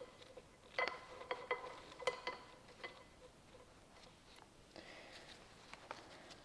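Faint metallic clicks and clinks of small transmission valve-body parts being handled and slid into their bore. Several sharp ringing taps come in the first three seconds, then a soft rustle with a few light ticks near the end.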